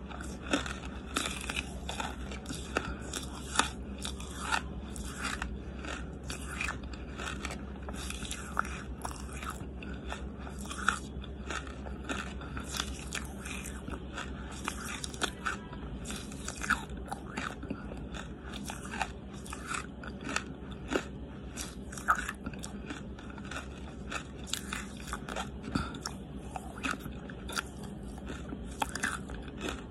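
A person chewing and crunching charcoal close to the microphone: a steady run of small crunches, several a second, with a louder crunching bite every few seconds.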